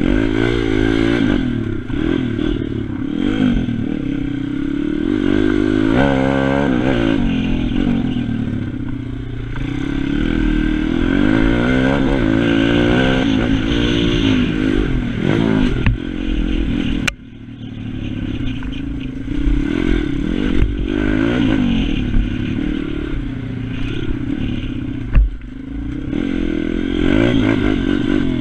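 Pit bike's single-cylinder engine revving up and down over and over as it is ridden hard round a track, with the sound dropping off suddenly just past the middle before picking up again.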